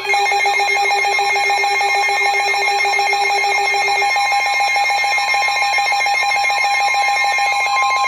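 Electronic weather-alert alarm: a rapidly pulsing tone layered with a higher warbling tone and other steady tones. Near the end a single steady tone starts, the weather radio warning alarm tone that comes before a broadcast warning.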